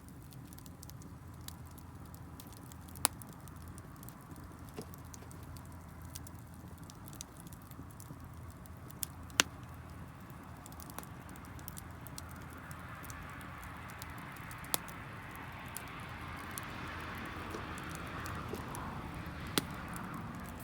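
Wood fire crackling, with sharp scattered pops and snaps over a low steady rumble. A hiss builds in the second half.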